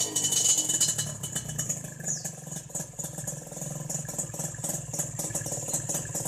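Kawasaki Ninja RR two-stroke single-cylinder engine idling steadily through an aftermarket exhaust, with a fast, even pulse. A brief high falling squeak comes about two seconds in.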